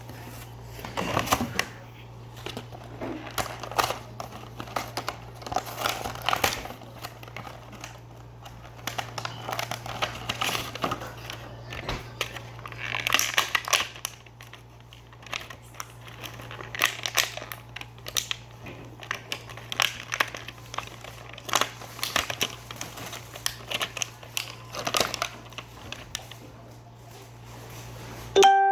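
Packaging crinkling and rustling as a toy is unboxed, in irregular bursts of crackles and clicks over a steady low hum. Right at the end a single pitched musical note cuts in.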